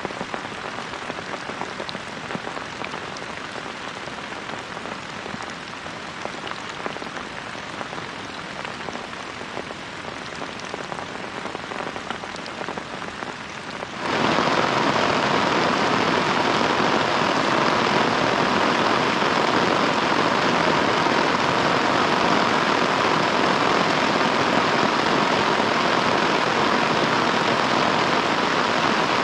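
Rain falling, with single drops heard ticking through the steady hiss. About halfway through it switches abruptly to a louder, denser rush of heavy rain that then holds steady.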